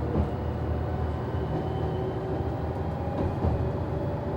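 Noto Railway NT100 diesel railcar running, heard from the cab: a steady low rumble with a whine slowly rising in pitch as it picks up speed, and a couple of light clicks from the track.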